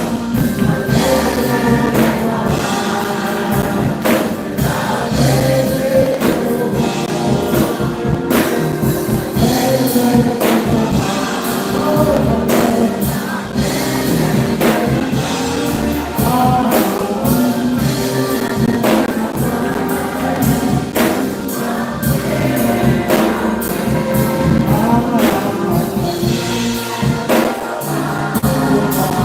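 Gospel choir and congregation singing with a live band, percussion keeping a steady beat.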